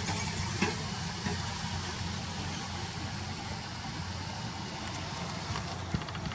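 Steady low rumble of distant motor traffic, with a few faint high peeps on top.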